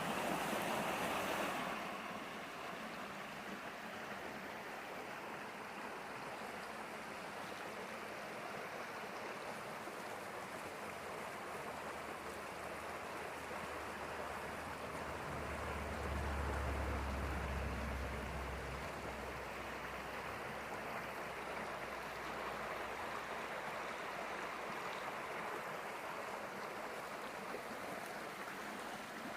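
Steady rush of flowing water, louder for the first second or so, with a deep low rumble swelling in about halfway through and fading a few seconds later.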